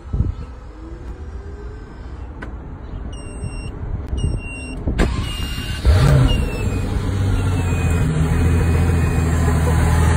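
Pagani Huayra's twin-turbo AMG V12 being started: two short electronic beeps and a click, then the engine catches with a loud flare about six seconds in and settles to a steady idle.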